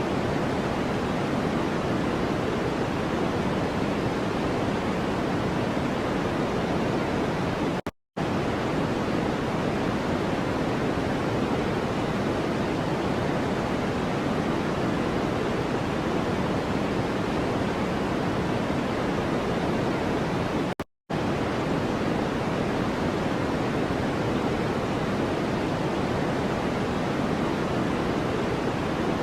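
Steady noise track of the masking kind, a deep, even hiss with most of its weight in the low-middle range, like pink noise. It cuts out to silence for a split second twice, about 8 seconds in and about 21 seconds in.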